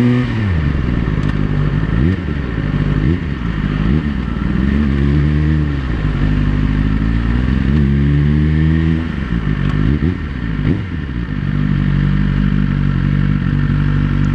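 Suzuki GSX-R1000's inline-four engine through a Yoshimura exhaust, ridden hard: the revs climb and drop several times as it accelerates, shifts and rolls off, then hold fairly steady near the end.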